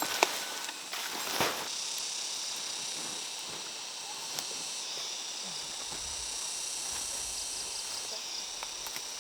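Steady chorus of insects: a high, even buzzing hiss, with short rapid chirps near the end. A couple of sharp knocks come in the first second and a half.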